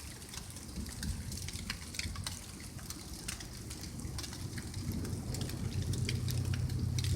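Rain falling, with individual drops ticking sharply and irregularly. A low rumble of thunder swells over the last couple of seconds.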